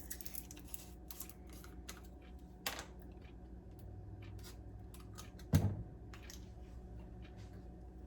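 Light clicks and taps of kitchen containers being handled while measuring and adding salad dressing, with two sharper knocks, the louder one about five and a half seconds in.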